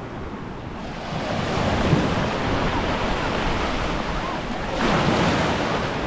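Small ocean waves breaking and washing on a rocky shore, swelling about a second in and again near the end, with wind buffeting the microphone.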